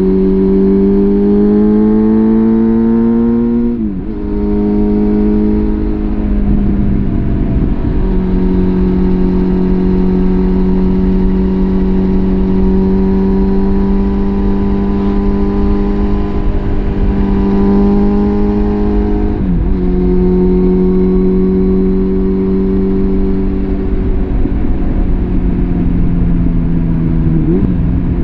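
Suzuki GSF650 Bandit's inline-four engine through a full Arrow exhaust system, pulling with rising revs, then upshifting about four seconds in. It then runs at fairly steady revs while cruising, with another quick gear change past the middle and a brief dip near the end.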